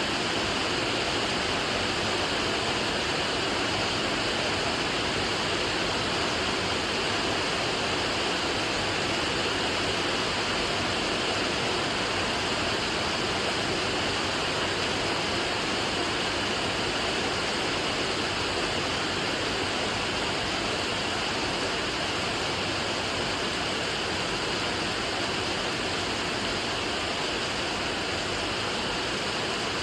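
Steady rain falling in a dense, even hiss, with no single drops standing out.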